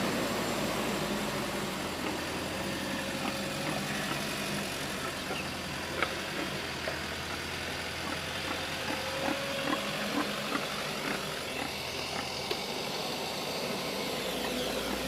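Doosan 140 excavator's diesel engine running steadily, with scattered light clicks and knocks over it.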